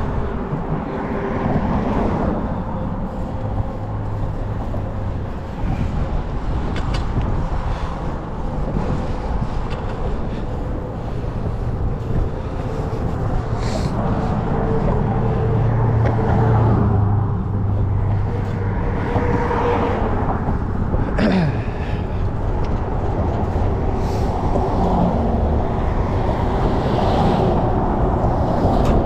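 Steady street traffic noise with cars passing and a continuous low rumble; about two-thirds of the way through, one passing vehicle gives a quick falling whine.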